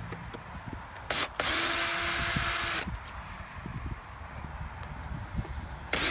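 Cordless drill/driver backing out Phillips screws. There is a short blip, then one steady run of about a second and a half at constant speed, and a second run starts near the end.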